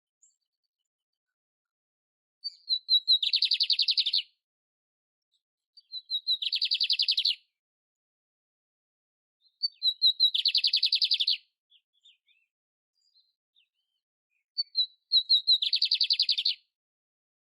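Canary (canário-império) singing the same short phrase four times, a few seconds apart. Each phrase is a few quick chirps leading into a fast, buzzy trill about a second long.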